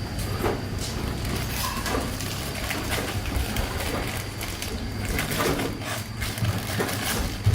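Irregular metal knocks and clatter of hand repair work on a machine part, over a steady low hum.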